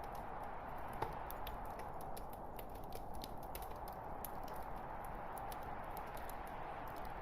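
Wood fire burning in a fireplace: a steady hiss of flames with scattered sharp crackling pops, one louder pop about a second in.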